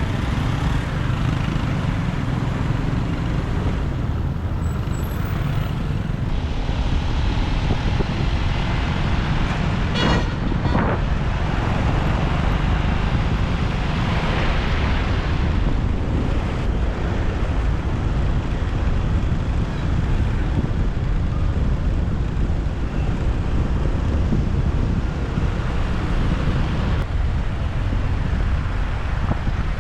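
Moving motorbike in city traffic: steady road and engine noise with wind rumble on the microphone. There is a short sharp sound about ten seconds in, and a louder passing vehicle a few seconds later.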